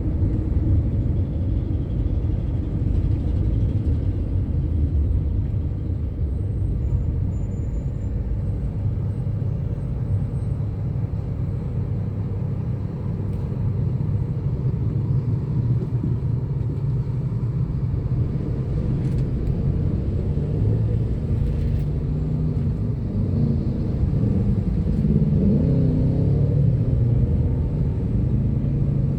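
Bus on the move: a steady low engine and road rumble, with the engine note climbing and wavering for a few seconds near the end as it pulls harder.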